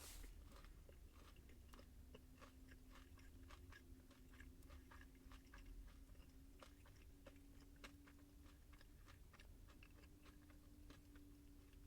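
Faint close-up chewing of food: soft irregular mouth clicks and small crunches, over a faint steady hum.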